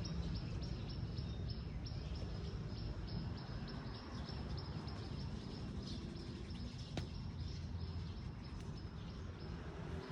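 Outdoor ambience: a steady low rumble under a repeating high chirp at about four a second, with one sharp click about seven seconds in.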